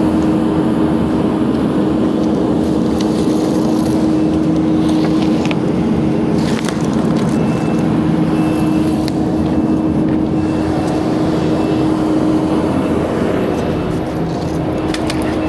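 Diesel engine of heavy equipment running steadily at a constant speed, with a faint high beep repeating for a few seconds in the middle.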